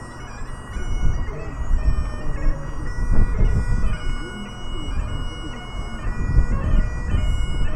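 Bagpipes playing a tune, its notes held and stepping from pitch to pitch, over an uneven low rumble.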